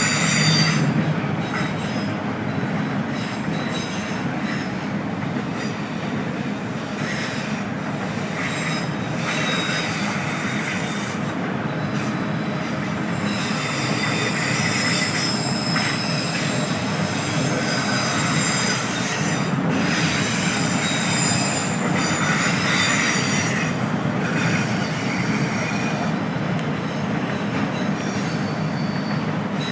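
Freight train cars rolling past, a steady noise of wheels on rails with high-pitched wheel squeal coming and going above it.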